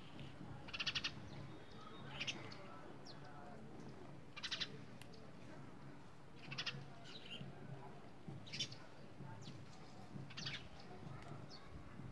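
A bird calling in the background: a short trilled call, repeated about every two seconds.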